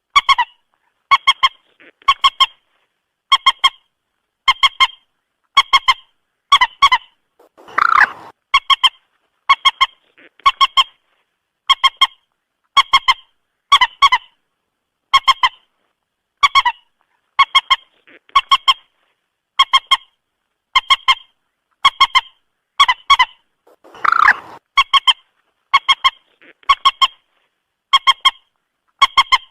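Common moorhen calls: short, sharp clucking notes in pairs or threes, repeated about once a second. A longer, harsher call comes about eight seconds in and again about sixteen seconds later, as the recording loops.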